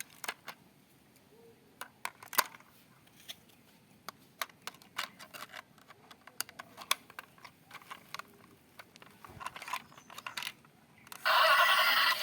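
Scattered sharp clicks, taps and light rattles of small hard plastic parts being handled. Near the end a louder, steady sound starts suddenly.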